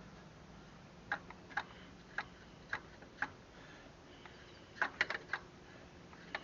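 Sharp clicks and taps from hand-tool work on a tractor: five evenly spaced about half a second apart, then a quick cluster of four or five near the end.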